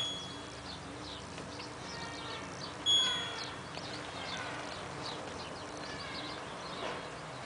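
Two short electronic beeps from the LG washing machine's control panel as option buttons are pressed, one at the start and another about three seconds in. Faint bird chirping runs underneath.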